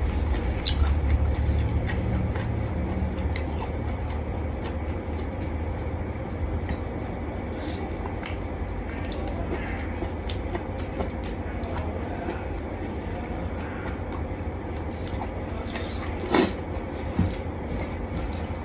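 A person chewing and biting into a spicy seafood salad of squid and shrimp, with many small wet clicks over a steady low hum. Two sharper knocks come near the end.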